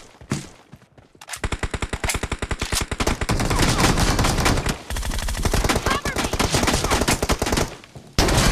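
Video-game automatic gunfire in rapid bursts: a long burst starting about a second in, a short pause near the middle, then another long burst, with a brief gap shortly before the end.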